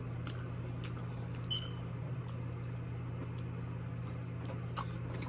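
Faint wet chewing and mouth clicks, a handful of soft ticks, over a steady low hum.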